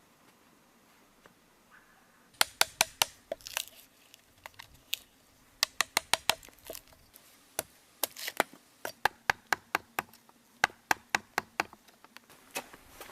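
Wood being worked with a hand tool, sharp strikes on wood in quick runs of several blows, about four or five a second, with short pauses between runs, starting about two seconds in.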